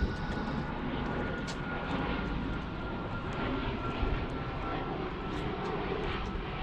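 Fixed-wing airplane passing overhead: a steady engine rumble with a faint whine that slowly drops in pitch.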